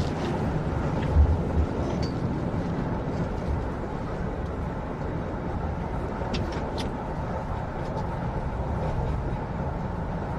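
Steady low rumble of a moving tram heard from inside the car, with a few low thumps about a second in and light clicks past the middle.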